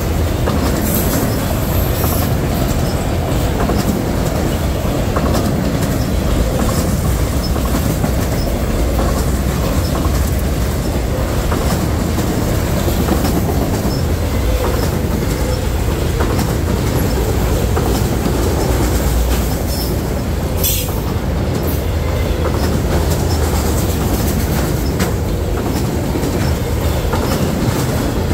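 A freight train rolling past, its cars' steel wheels clicking over the rail joints in a steady rumble, with one brief sharp noise about twenty seconds in.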